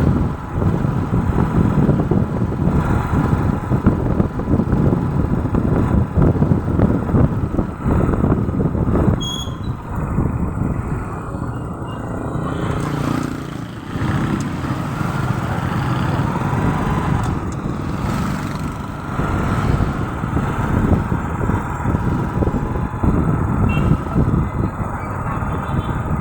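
Road traffic: vehicle engines and tyre noise, swelling and easing as vehicles pass.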